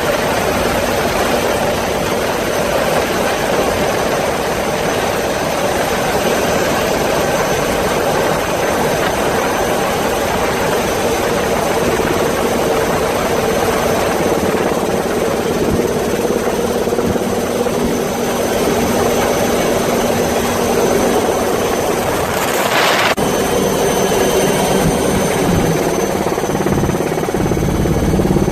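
Helicopter running steadily overhead, its rotor and engine noise continuous, with a brief rush of noise about three-quarters of the way through.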